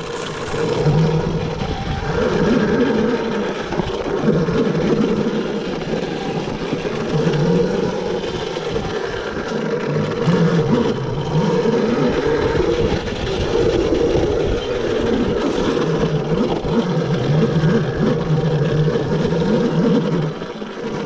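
Yozma IN10 electric dirt bike riding along a trail, its motor whine rising and falling over and over with the throttle, over a steady rush of noise.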